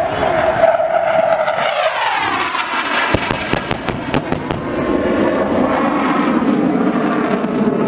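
RAF Hawk T2 jet passing low with its engine roar falling in pitch, then a rapid run of sharp bangs from the pyrotechnic ground explosions about three seconds in, with the jet roar carrying on behind.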